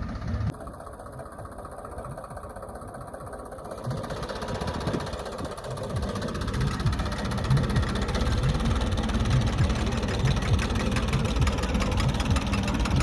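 Ford 3600 tractor's three-cylinder diesel engine running with a steady, even firing pulse. The sound drops suddenly about half a second in, then grows louder over the next few seconds and stays steady through the second half.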